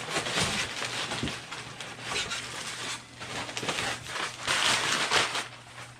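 Plastic packaging rustling and crinkling in uneven bursts as it is handled and pulled apart.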